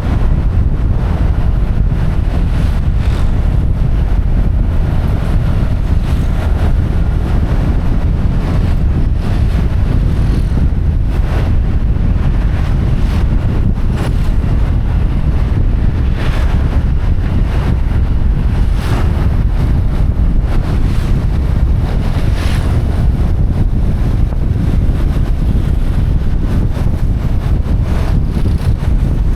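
Heavy wind buffeting on the microphone during a motorcycle ride: a loud, steady low rumble with road and vehicle noise underneath.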